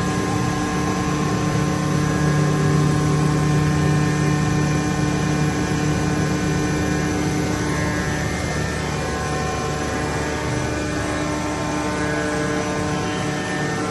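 Steady machine-shop drone of CNC milling machines and a lathe running: an even hum with many steady tones layered over a noisy whir.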